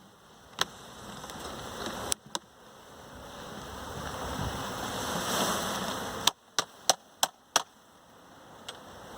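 Sharp wooden knocks as a wooden bee package box is rapped and worked apart to dump the last bees into the hive, over a swelling rush of honey bees buzzing. The noise builds, then cuts off, and is followed by a quick run of five knocks.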